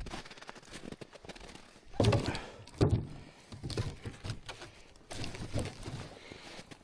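Firewood being handled: scattered knocks and rustling, with two heavy thuds about two and three seconds in.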